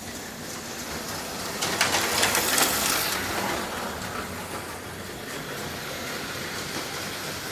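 HO-scale Auto World Thunderjet slot cars whirring around the track. One passes louder and closer between about two and three seconds in.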